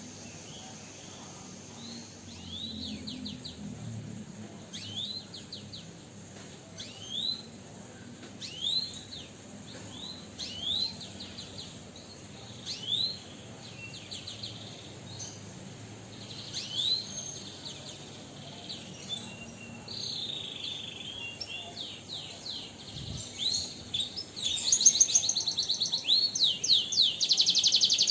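Pet songbirds chirping: short rising chirps every second or two, becoming a louder, rapid run of quick notes near the end.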